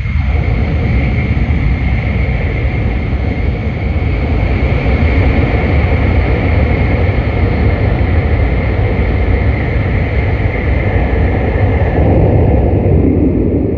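Loud, steady rumble and rushing noise of a West Kyushu Shinkansen N700S train heard from inside the car as it runs at speed through a tunnel. It rises suddenly at the start, as the train enters the tunnel, and drops away suddenly near the end as it leaves.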